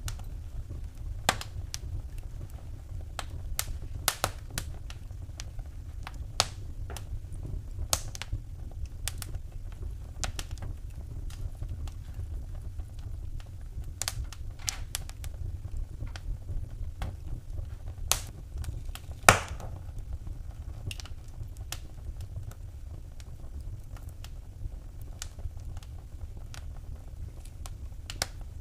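Wood fire burning in a fireplace: irregular sharp crackles and pops over a steady low rumble of the flames, with one louder pop about two-thirds of the way through.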